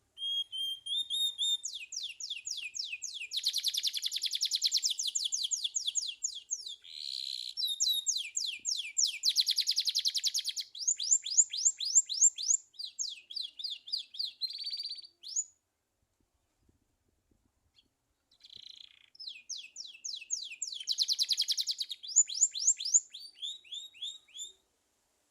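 Domestic canary singing: a long song of rapid trills, each made of fast repeated high sweeping notes, stopping about fifteen seconds in. After a few seconds' pause it sings a second, shorter phrase of the same trills.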